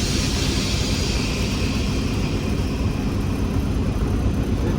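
Class 47 locomotive's Sulzer twin-bank twelve-cylinder diesel engine running steadily, a low rumble heard from the driving cab. A hiss of air fades away at the start, just after the brake is released.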